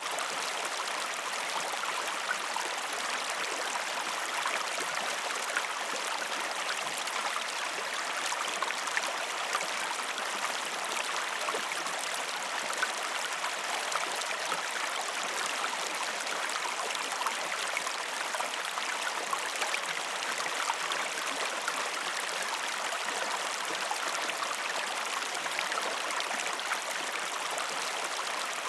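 Waterfall: a steady, even rush of falling and splashing water, with fine splashes throughout and little deep rumble.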